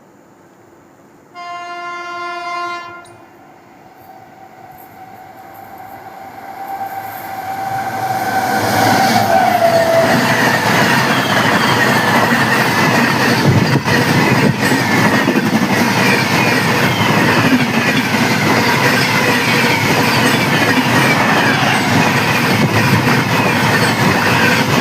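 A train horn sounds one blast of about a second and a half. The train then comes closer, growing louder over several seconds, with a fainter held tone. From about eight seconds in it passes close by with a loud, steady rumble and clatter of coaches and wheels over the rail joints.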